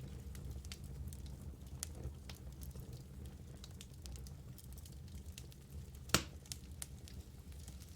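Wood fire crackling in a fireplace: scattered sharp pops and snaps over a low steady rumble of the flames, with one louder pop about six seconds in.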